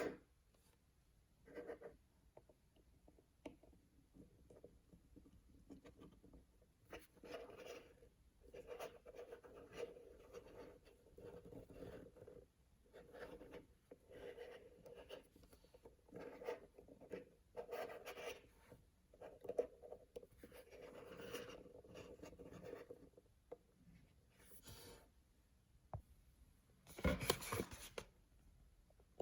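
Paper blind-bag packaging being handled and opened by hand: a run of soft rustling and scratching strokes, with a louder rustle near the end.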